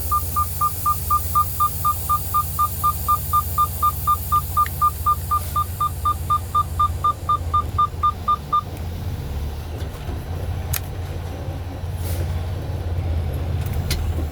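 Truck engine running with a steady low rumble, heard from inside the cab. Over it, rapid electronic beeping, about four to five even beeps a second, stops about eight seconds in. A few sharp clicks follow near the end.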